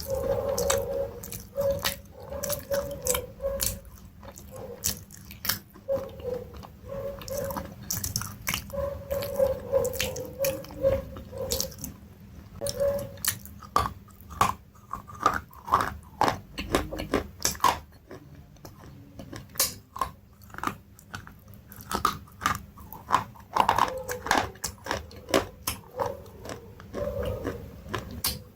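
Close-up chewing and biting of crunchy food, a dense run of sharp, irregular crunches.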